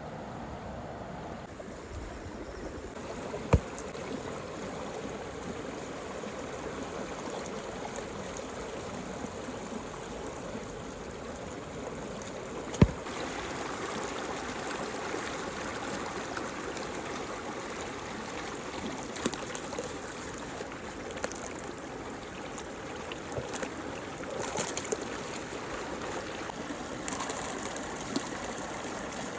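Water swirling down into a muddy whirlpool hole: a steady running, trickling sound. It is broken by two sharp knocks, one a few seconds in and a louder one about halfway, and by a few smaller clicks later on.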